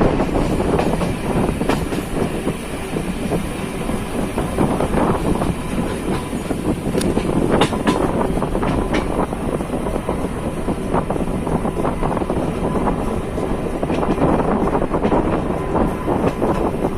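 Diesel-hauled passenger train of Corail coaches running on the rails: a steady loud rumble with the wheels clicking and clattering over rail joints, a few sharper clacks about halfway through.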